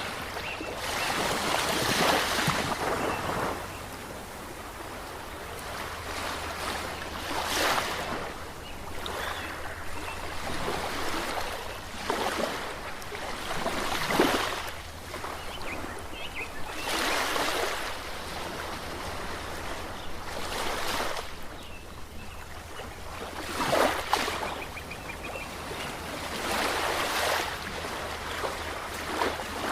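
Ocean waves breaking and washing up a shore, each surge swelling and fading every few seconds.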